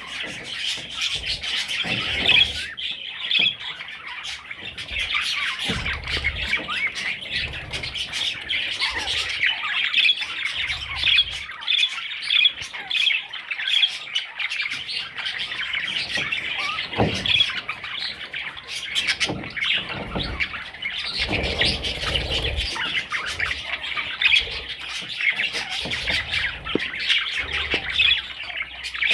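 Parrot chicks chirping and squawking nonstop in many rapid, overlapping calls, with a few low thumps.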